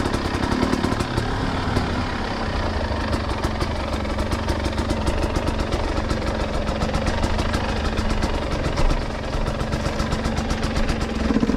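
Dirt bike engine idling with a rapid, even firing beat.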